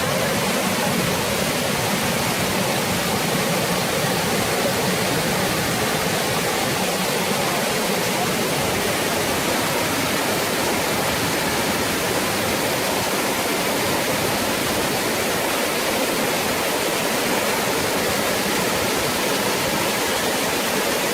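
Waterfall: the steady, unbroken rush of falling water, with no breaks or distinct splashes.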